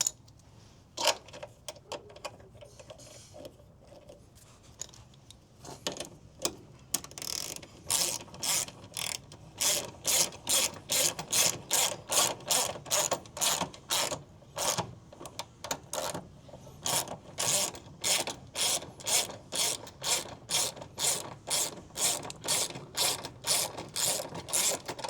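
Hand ratchet wrench being worked, a few scattered clicks at first, then a steady run of ratcheting strokes about twice a second.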